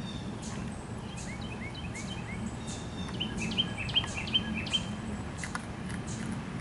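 Small birds chirping in series of short notes, over a steady low hum.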